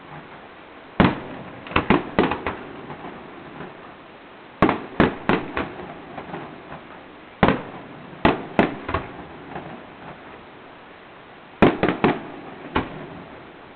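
Fireworks display: shells bursting overhead in irregular clusters of sharp bangs, a few in quick succession, then a pause of a second or two before the next group, with a low crackle between them.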